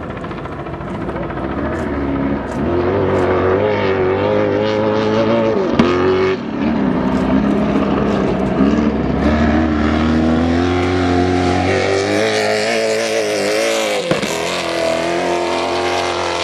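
Stadium Super Truck V8 engine revving hard, its pitch climbing and dropping several times as the truck accelerates and backs off the throttle, with a sharp dip about six seconds in and another near the end.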